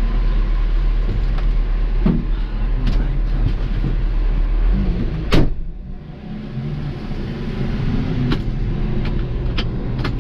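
Garbage truck's diesel engine running with a steady low drone. A sharp knock comes about five seconds in, the sound dips briefly after it, and a few lighter clicks follow.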